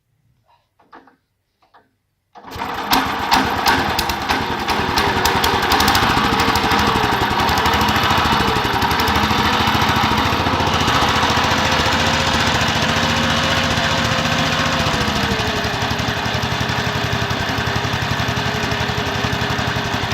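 Homemade mini tractor's ZID-4.5 single-cylinder engine on its first start: a few faint knocks, then it catches about two seconds in and runs steadily with rapid, even firing pulses. Its speed wavers and then settles slightly lower about fifteen seconds in.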